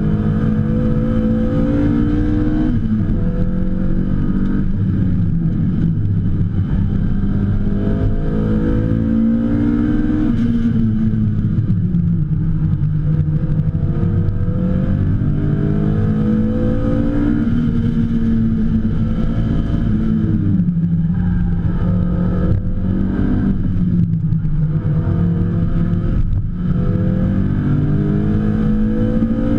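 BMW M3 E30 race car's engine at full throttle on a hot lap, heard from inside the cabin. Its pitch climbs through the revs and drops back sharply at each upshift, several times over, and falls away in between under braking into corners.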